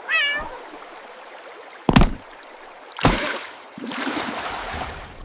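Water splashing: a steady spill of water with two sharp, loud splashes about two and three seconds in. A brief high squeak comes at the very start.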